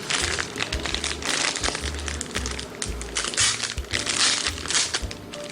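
Plastic packaging crinkling and crackling in rapid handling, as a COVID self-test kit is unwrapped, over background music with a steady bass pattern.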